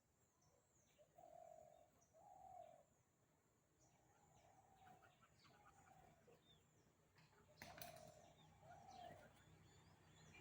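Birds calling: a low hooting note repeated about six times, with faint high chirps from small birds between. There is a single sharp click about three-quarters of the way through.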